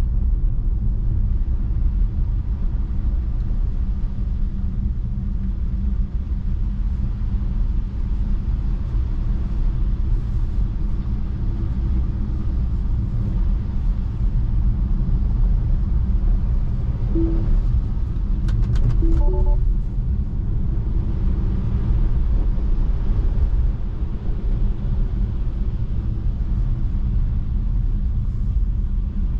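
Steady low rumble of road and tyre noise inside the cabin of a Tesla Model 3 driving on a snow-covered road. A few short tones and faint clicks sound about two-thirds of the way through.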